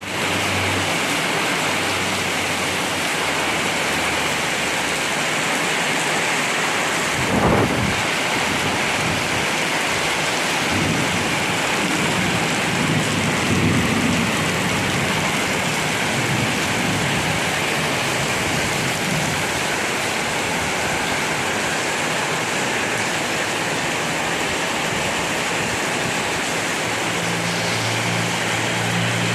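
Heavy tropical rain pouring steadily in strong wind. A sudden thunderclap comes about seven and a half seconds in, followed by low rolling thunder for several seconds.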